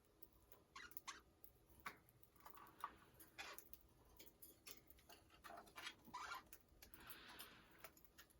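Budgerigars making faint, short chirps with small clicks scattered among them, and a soft rustle about seven seconds in.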